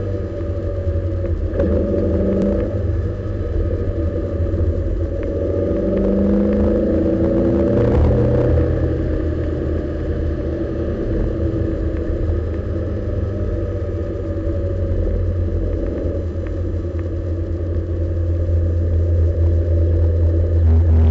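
Lotus Elise S1's Rover K-series four-cylinder engine heard from inside the open cabin, running on and off the throttle down a winding road in 3rd and 4th gear, over a deep steady drone of road noise. Its pitch rises and falls as the speed changes.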